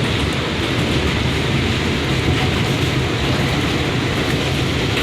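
NYC subway R179 car running at speed between stations: a steady rumble of wheels on rails and running gear, heard from on board.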